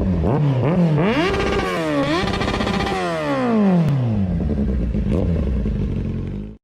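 Motorcycle engine accelerating in short rising steps through quick gear changes, then a long falling note as it slows down, settling to a steady lower running tone.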